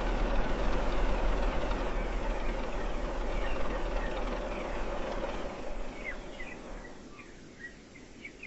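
A heavy truck's engine rumble fading out gradually over about seven seconds. Birds start chirping near the end.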